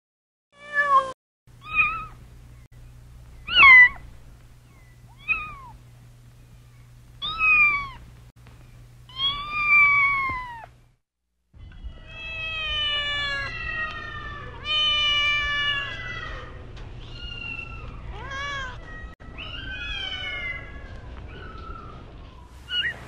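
Kittens meowing: a string of short, separate high-pitched meows, then, after a brief break about eleven seconds in, a denser run of overlapping meows.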